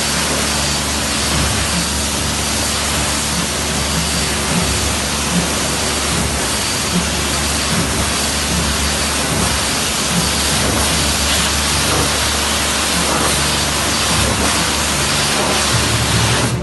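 Pressure washer spraying water in a steady, loud hiss, with a low steady hum underneath.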